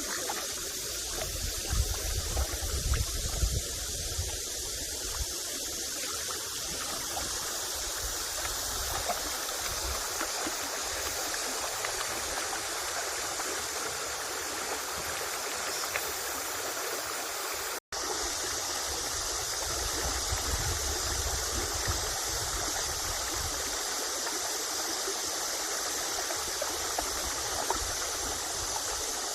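Valley stream running with a steady wash of water, with some low rumble in the first few seconds. There is a momentary dropout a little past halfway.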